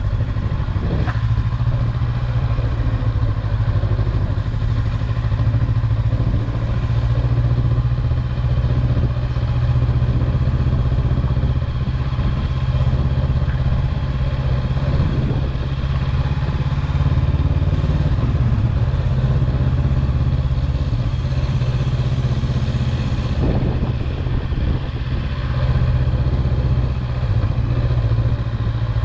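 An engine running steadily, with a deep constant hum and a faint knock or two.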